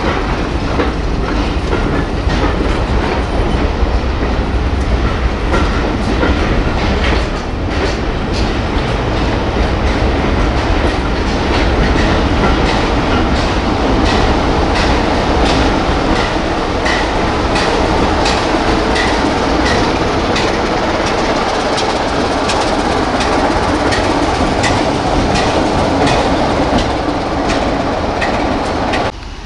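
Passenger coaches of a diesel-hauled train rolling past along the platform, their wheels clicking steadily over the rail joints under a continuous rumble. The sound drops off abruptly just before the end.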